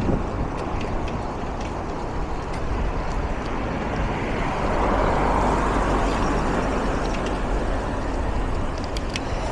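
Street traffic with wind buffeting the microphone of a moving bicycle, a vehicle swelling past about halfway through.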